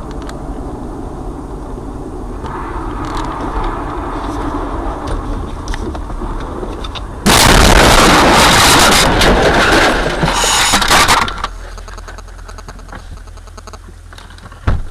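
Steady road and engine noise of a moving car, then a sudden, very loud crackling burst about seven seconds in that lasts about four seconds and drops back to a quieter steady noise.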